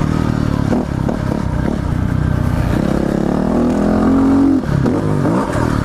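Single-cylinder four-stroke engine of a 2009 Yamaha WR250R, bored and stroked to 310 cc and running an FMF exhaust, revving under way. Its pitch climbs steadily for a couple of seconds, drops sharply about four and a half seconds in as the throttle is rolled off or a gear is shifted, then rises and falls again.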